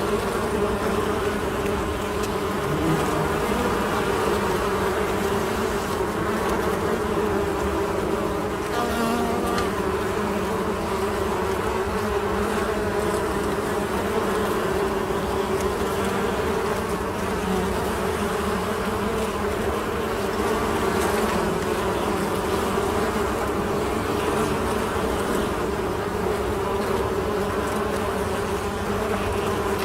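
Honey bees buzzing in a steady, continuous hum.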